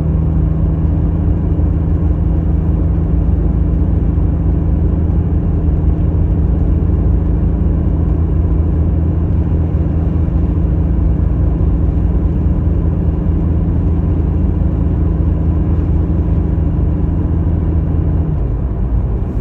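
Jeep Cherokee XJ engine running at a steady speed, a constant low drone. Shortly before the end the deepest part of the drone drops away.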